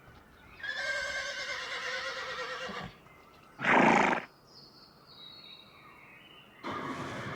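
Horse whinnying: a long, wavering neigh, then a short, loud burst about halfway through, and another sound from the horse starting near the end.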